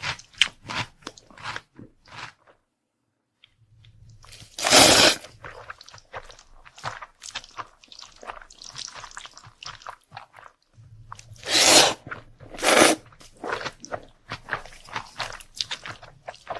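Close-miked chewing of crunchy food, with clicky bites and three loud crunches: one about five seconds in, and two a second apart around the twelve-second mark. There is a brief pause of a second near the start.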